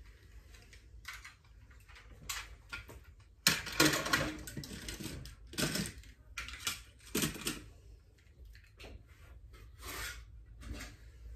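Household tidying sounds in a small room: scattered knocks and clicks of objects being handled and set down, with a louder stretch of clatter and rustling about three and a half seconds in.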